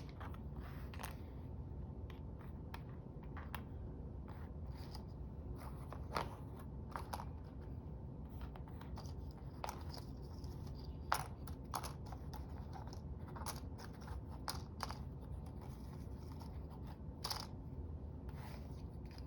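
Quiet paper-crafting sounds: scattered, irregular light clicks and snips of small paper pieces and tools being handled and cut.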